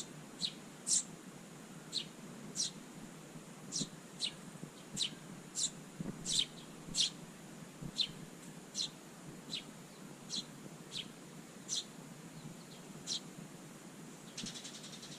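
A small garden songbird giving short, high chirps over and over, about one or two a second. Near the end a buzzy, rasping high sound starts.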